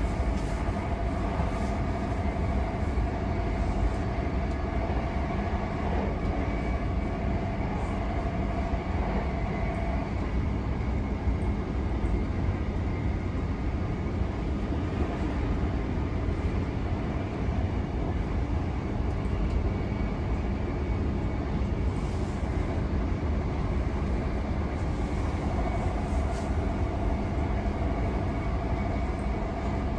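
c2c electric multiple-unit train running at speed, heard from inside the carriage: a continuous low rumble of wheels on rail. A steady whine rides on it for the first ten seconds, fades, and comes back a few seconds before the end.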